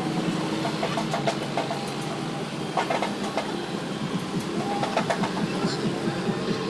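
Sewing machine running steadily, a rapid, even clatter of the needle stitching through sneaker material.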